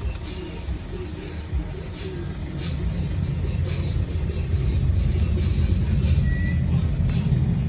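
Car on the move: a low road and engine rumble that grows louder about three seconds in.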